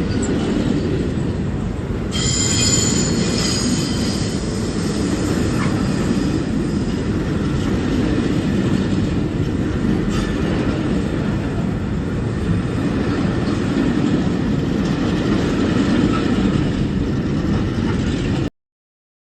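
Train rolling on the rails with a steady rumble, and a brief high wheel squeal about two seconds in. The sound cuts off suddenly near the end.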